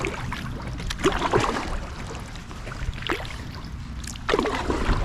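Kayak paddle blades dipping and splashing in calm canal water, several uneven strokes about a second apart.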